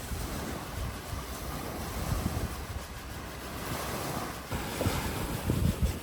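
Sea waves washing on the shore, with wind rumbling on the microphone and a few low thuds near the end.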